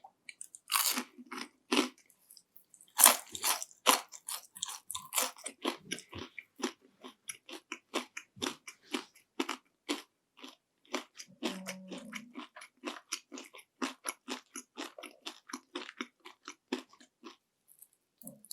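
Crunchy bites and chewing of panko-breaded fried shrimp, close-miked: two loud crunching bites in the first four seconds, then quick, steady crunchy chewing that stops near the end.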